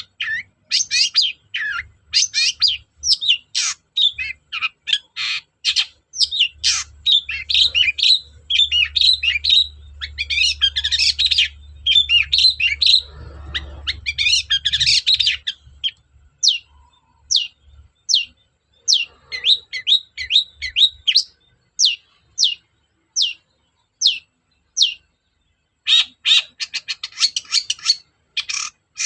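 Long-tailed shrike (cendet) in full song: a rapid, chattering run of varied high notes, then short single notes about one a second, then a fast, dense trill near the end.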